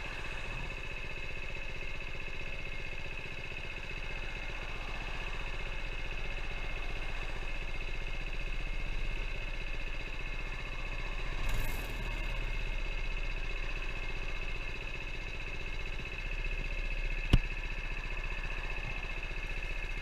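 Minibike's small engine running at a steady, unchanging speed. A brief rush of noise comes about halfway through, and a single sharp click near the end.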